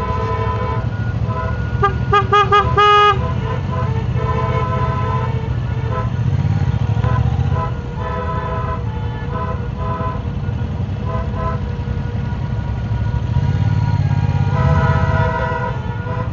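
A 2016 Triumph America's parallel-twin engine running low, with vehicle horns honking at several pitches over it. About two seconds in, one horn gives four quick beeps, and a longer honk comes near the end.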